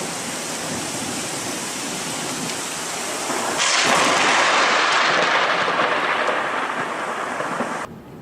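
Thunderstorm: steady rain hiss, then a long roll of thunder swells up about three and a half seconds in and slowly dies away. The sound cuts off suddenly near the end.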